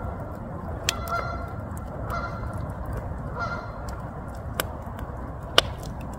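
A bird honking in short calls, four times over about three and a half seconds, with a few sharp cracks scattered through, the loudest near the end, over a steady low rumble.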